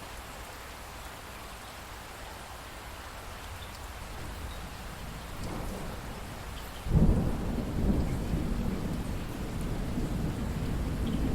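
Steady rain falling, then a loud rumble of thunder breaking in about two thirds of the way through and rolling on under the rain.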